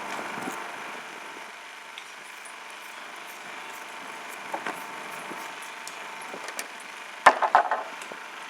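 Steady engine hum in the background, then near the end a sharp knock on wood followed by a short run of smaller knocks, as of building work.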